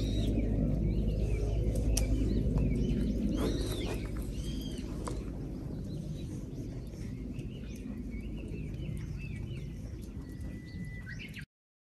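Birds chirping in short rising-and-falling calls over a steady low rumble that slowly fades, cutting off suddenly near the end.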